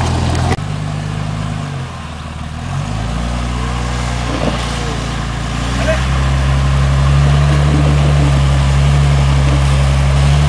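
Off-road 4x4's engine idling low, its pitch sagging about two seconds in and then picking up again, then running a little harder and steadier from about six seconds in.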